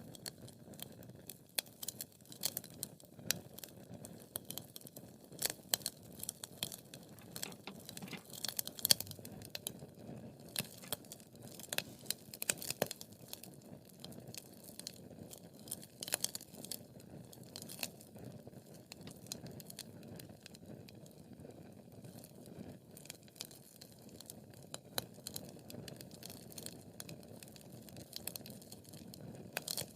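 Wood fire crackling: sharp, irregular pops and snaps over a low, steady rush of burning logs, with a loud pop about nine seconds in and a busy spell of crackles around twelve to thirteen seconds.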